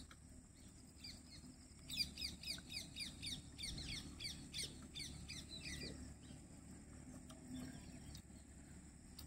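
A bird calling a rapid run of short, downward-sweeping chirps, about five a second, starting about a second in and fading out by about six seconds, over a faint steady high hum.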